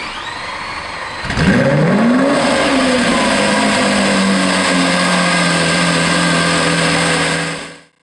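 A car engine revving: its pitch climbs sharply about a second in, eases back, then holds as a steady drone before fading out near the end.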